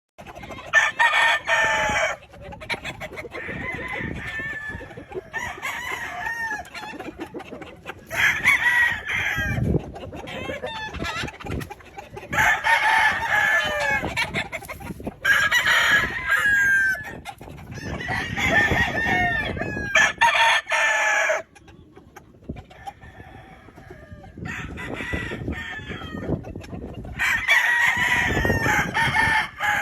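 Several gamefowl roosters crowing one after another, a crow every couple of seconds and some overlapping, with hens clucking in between.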